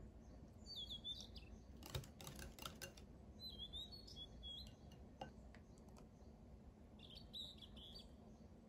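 Faint bird chirps in three short phrases over quiet room tone, with a quick cluster of light clicks about two seconds in, a wire whisk tapping the glass mixing bowl, and one more click a little after the middle.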